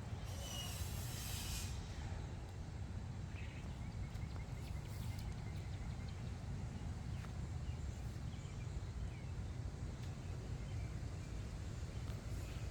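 Outdoor background ambience: a steady low rumble, with a brief rustling hiss about half a second in.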